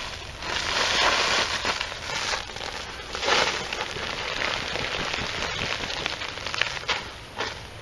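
Hands rummaging through loose potting soil on a plastic tarp: a crackling, rustling scrape of dirt and crinkling tarp that swells about a second in and again around three seconds in, with small clicks between.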